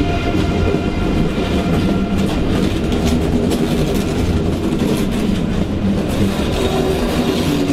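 Train rolling by, with a steady rumble and the clatter of wheels over rail joints.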